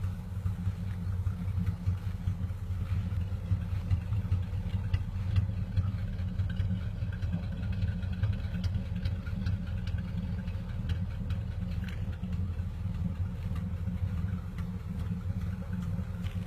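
Engine of a 1952 Ford F2 Marmon-Herrington four-wheel-drive truck running steadily with a low, even rumble.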